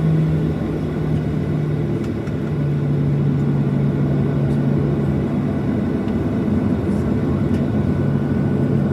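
Boeing 737-700's CFM56-7B jet engines running, heard as a steady rumble with a low hum inside the passenger cabin. The hum drops slightly in pitch about two seconds in.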